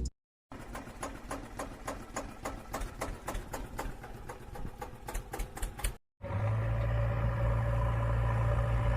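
Rapid mechanical clicking, several clicks a second, for about five seconds, then after a short break the steady hum of a small electric motor running.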